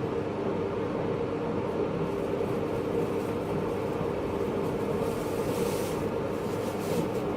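Steady onboard noise inside a 583-series electric train's motor car: a low rumble with a steady hum. A short hiss comes about five and a half seconds in.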